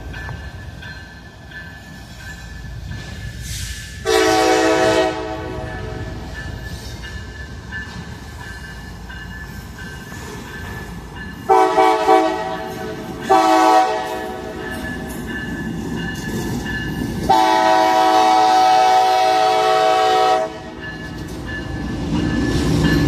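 CSX freight locomotive horn sounding for a grade crossing: a long blast, two short ones, then a final long blast, over the rumble of the approaching train, which grows louder near the end. The crossing's electronic bell rings steadily underneath.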